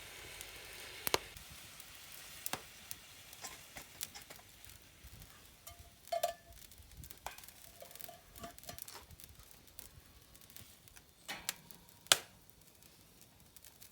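Gyoza sizzling in a pan over a campfire: a frying hiss that fades over the first couple of seconds, then scattered sharp clicks and taps, the loudest about a second in and near the end.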